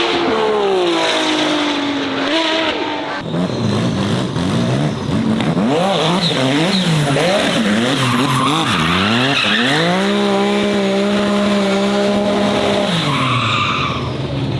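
Racing car engine revving hard with tyre squeal, as in drifting or doughnuts. The revs fall at first, swing rapidly up and down for several seconds, then hold steady and high for about three seconds before dropping near the end.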